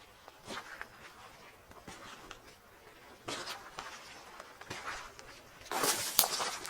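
Footsteps on the forest floor, irregular steps roughly a second apart, the loudest a cluster of scuffs near the end.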